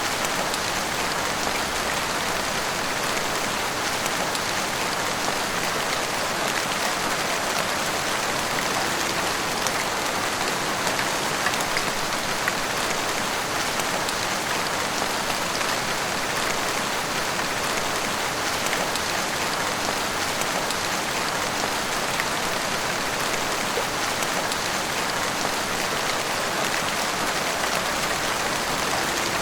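Heavy rain pouring steadily: an even hiss of rainfall with scattered ticks of individual drops.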